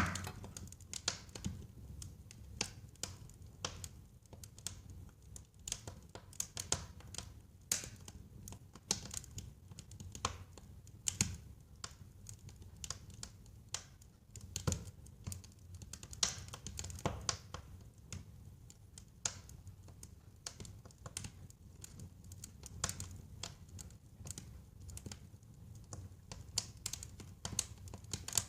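Wood fire crackling in a fireplace: irregular sharp pops and snaps over a low, steady rumble of flame.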